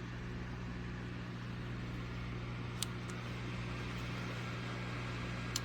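Battery neck fan running with a steady rush of air, with two sharp clicks of its power button, about three seconds in and again at the end, as its speed levels are cycled.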